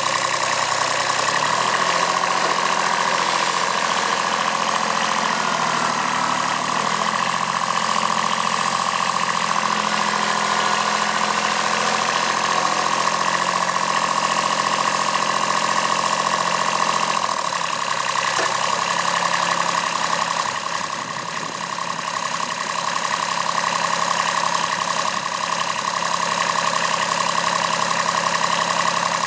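Kubota B7001 tractor's D850 diesel engine running continuously. Its speed steps up a couple of times in the first several seconds and drops back a little over halfway through.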